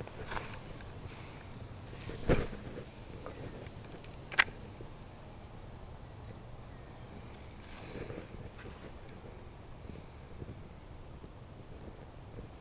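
Steady high-pitched drone of insects along the river, with a single knock about two seconds in and a sharp click about two seconds later.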